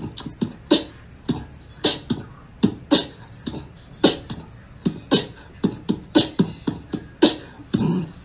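An uneven, rapid run of short, sharp pops and clicks, about three or four a second, many with a low thump under them.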